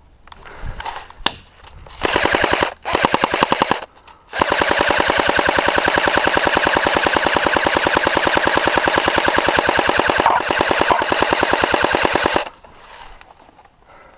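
Airsoft rifle firing on full auto: two short bursts, then one long burst of about eight seconds, each a fast, even rattle of shots.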